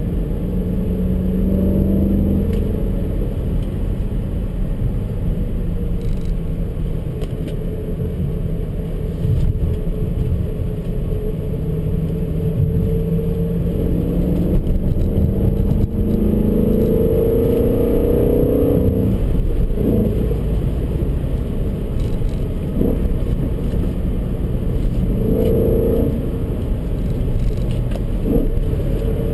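Engine of a manual-gearbox BMW heard from inside the cabin while driving, with tyre and road rumble. The engine note rises several times as the car accelerates, with a brief drop a little past the midpoint.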